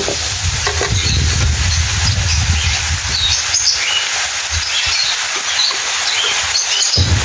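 Vegetables sizzling as they fry in a steel wok, a steady hiss, with a metal spatula stirring and scraping against the pan now and then.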